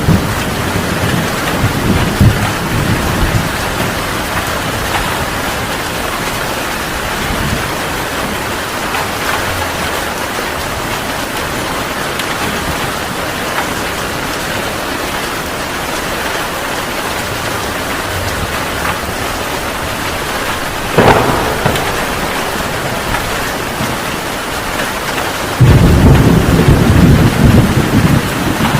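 Heavy rain falling steadily, with thunder: rumbles in the first few seconds, a sharp crack about 21 seconds in, and a loud deep rumble that starts suddenly about 25 seconds in.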